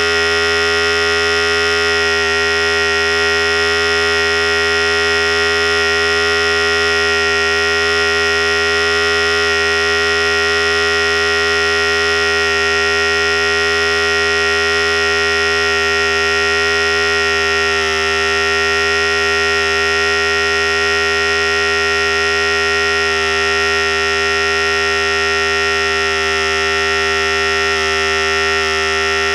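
Philips Series 5000 electric hair clipper running continuously with a steady buzz, its pitch dipping slightly about two-thirds of the way through.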